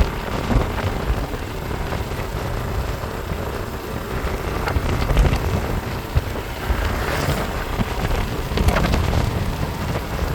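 A moving vehicle's low, steady rumble of engine and road noise, with wind buffeting the microphone.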